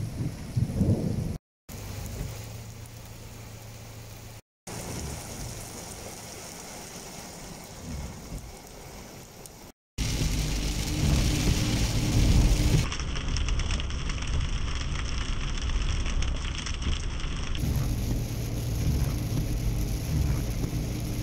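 Heavy rain falling steadily, with a low rumble of thunder in the first second or so. About ten seconds in, after short cuts, it changes to a car driving on a wet road in heavy rain, heard from inside the car: steady road and engine noise with rain hissing on the windscreen.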